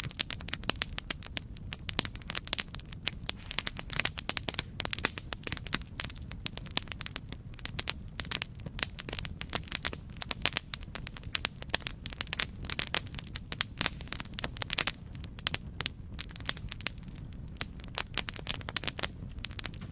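Campfire crackling: a dense, irregular run of sharp pops and snaps over a steady low rumble of burning.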